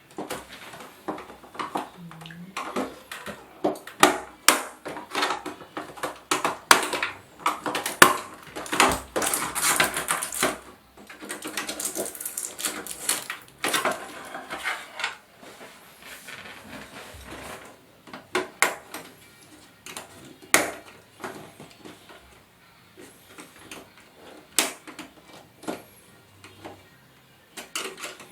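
Clicks, knocks and plastic rattles from disassembling a 32-inch LED TV: screws and the plastic back cover being worked loose and handled, denser and more scraping in the middle stretch.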